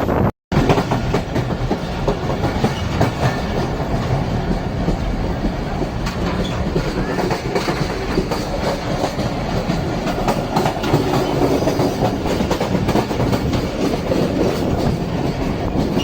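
Passenger train running along the track with a steady running noise; the sound drops out completely for a moment about half a second in.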